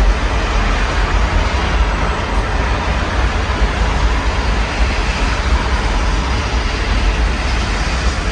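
Steady rain heard through an open window, an even hiss, over a constant low rumble.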